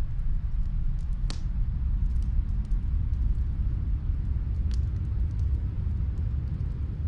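Snowstorm wind as a steady low rumble, with faint, sparse crackles and pops from a wood fire, the clearest about a second in and another near five seconds.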